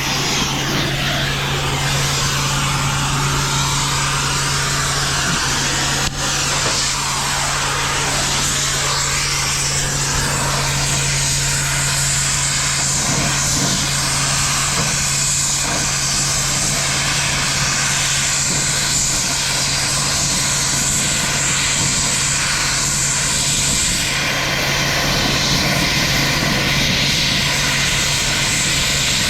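An engine running steadily with a constant low hum and a dense even noise over it, and a single sharp click about six seconds in.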